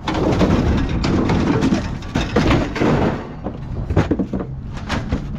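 Irregular clatter and thuds of junk and scrap being handled and thrown out, with a sharp knock about four seconds in.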